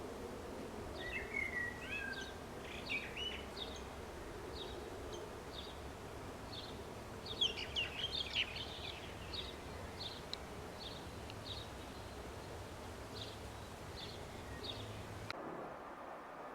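Songbirds chirping: a run of short, high chirps and a few quick whistled notes over a steady outdoor background hiss, busiest about a quarter and halfway through. Near the end the background changes abruptly to a duller one and the chirps stop.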